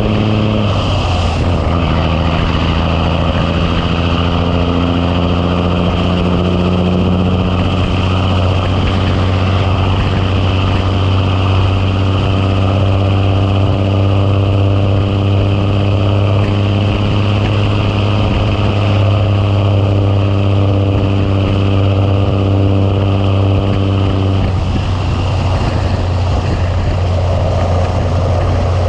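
Big Cam Cummins inline-six diesel of a 1986 Ford LT9000 tractor pulling under load while hauling a truck on its trailer. The engine note drops about a second in, as at a gearshift, then climbs slowly and steadily through the gear, and the steady note breaks up about three-quarters of the way through.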